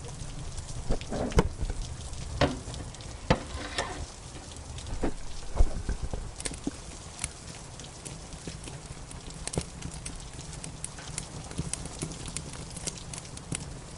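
Wood fire crackling in a fireplace: irregular sharp pops and snaps, several louder ones in the first half, over a steady low rumble.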